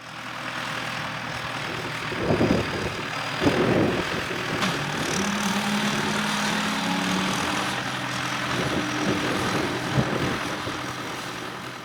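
An engine running steadily, with a couple of louder bumps about two and three and a half seconds in.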